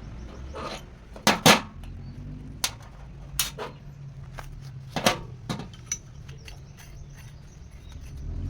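Metal pieces knocking and clinking together in about ten separate strikes, the loudest pair about a second and a half in, over a low steady hum.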